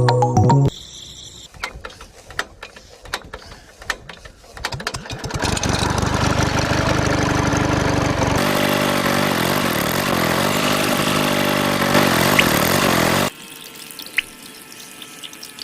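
Small electric motor of a DIY mini water pump running with a steady whine that shifts pitch partway through, after some light clicking and rattling, then cutting off suddenly near the end.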